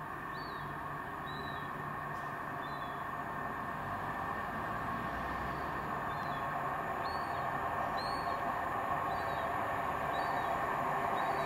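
Class 171 Turbostar diesel multiple unit approaching, its engine and wheel noise steady and growing gradually louder. A small bird gives a short high chirp about once a second over it.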